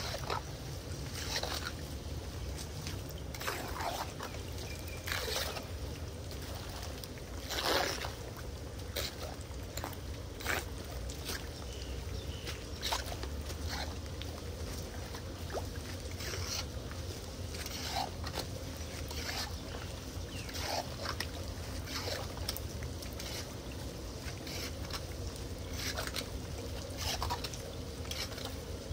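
Floodwater splashing and sloshing at irregular intervals over a steady low rush of water, as a clogged street drain is cleared.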